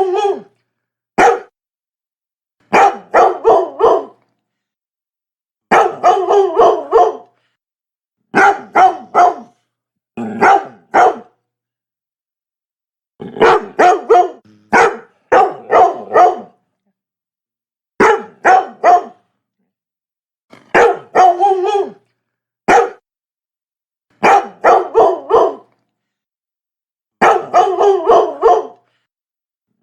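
Labrador barking over and over in short clusters of one to four sharp barks, with clean silent gaps of a second or two between clusters.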